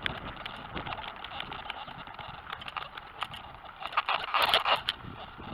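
BMX bike being ridden: tyre noise with many small clicks and rattles, and wind buffeting the head-mounted camera's uncovered microphone, louder for about a second near the end.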